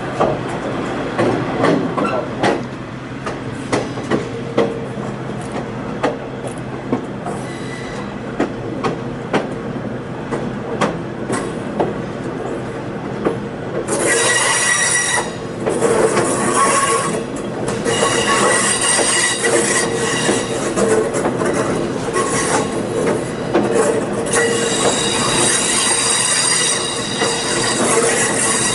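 Railroad passenger car rolling along the track, its wheels clicking over rail joints. About halfway through, steel wheel flanges start squealing on a curve in several high tones that come and go.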